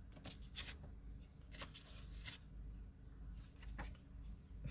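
Faint shuffling and handling of cards: scattered light rustles and clicks.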